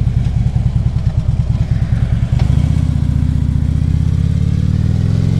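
Harley-Davidson V-twin motorcycle engine running under way, with a lumpy, pulsing note at first. About two and a half seconds in there is a faint click, and the note turns steadier and rises slowly as the bike picks up speed.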